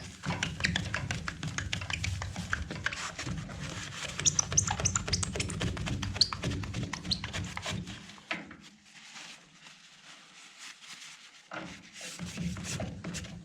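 Dry paper towel rubbed hard over a stove's glass door, a dense scratchy wiping with a few short high squeaks. It breaks off for a few seconds past the middle, then starts again.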